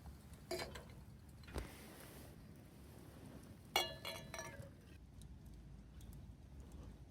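A couple of light knocks, then about four seconds in a sharp, ringing clink of a drinking cup or glass being handled, its ring dying away within a second.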